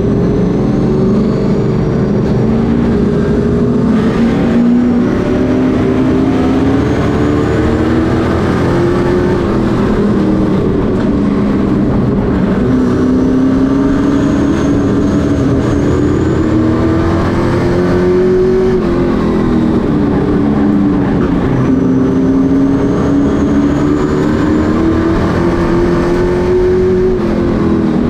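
Pro Truck race trucks' engines running at racing speed, the pitch repeatedly climbing as they accelerate and dropping as they lift off, with several engines heard at once.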